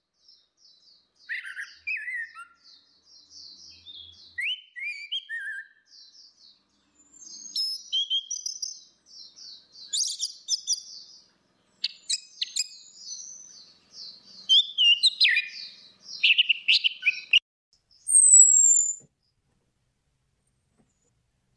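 Orange-headed thrush singing: a fast, varied run of short chirps, slurred notes and trills, phrase after phrase, ending with a clear high whistle that falls in pitch.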